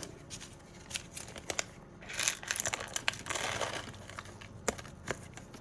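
Plastic packaging crinkling and rustling as it is handled, with scattered small clicks and two longer stretches of crinkling in the middle.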